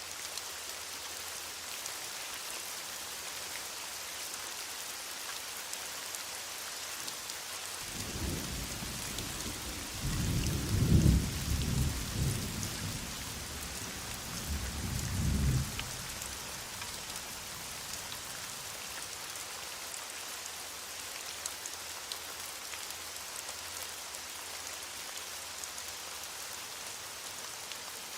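Heavy rain falling steadily, with a roll of thunder that rumbles in about eight seconds in, is loudest a few seconds later, swells again briefly and dies away after about eight seconds.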